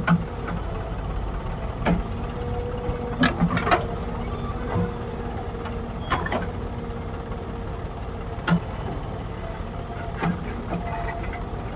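Heavy diesel machinery running at a steady speed, with a steady whine over the engine rumble and short metallic knocks and clanks every second or two.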